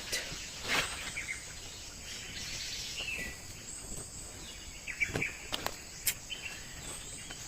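Steady high-pitched drone of insects, with a brief bird chirp about three seconds in and a few short rustles or knocks, one near the start and a cluster a little past the middle.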